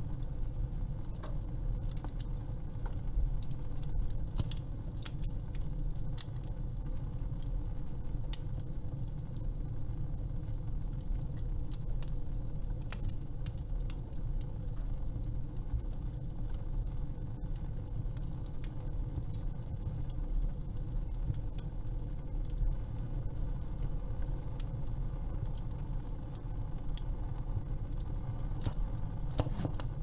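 Wood fire crackling: frequent sharp pops and snaps scattered irregularly over a steady low rumble, the pops a little denser in the first few seconds and near the end.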